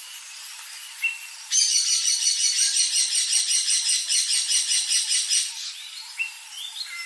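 Birds calling. A loud burst of rapid, chattering song runs for about four seconds, starting about a second and a half in, with short rising chirps before and after it.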